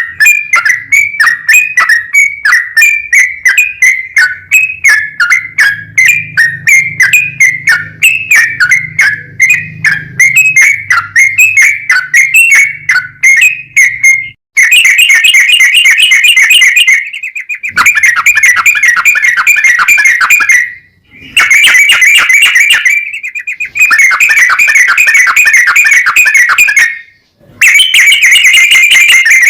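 Yellow-vented bulbul (trucukan) singing loudly: a quick run of repeated sharp notes for about the first half, then long fast rolling trills of several seconds each, broken by short pauses.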